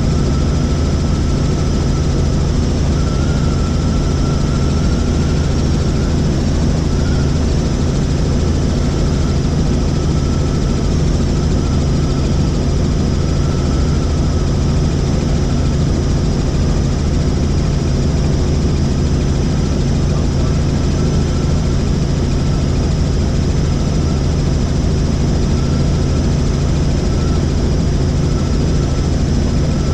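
Helicopter in flight, heard from inside the cabin: a loud, steady drone of engine and rotor with a low hum and a faint high whine.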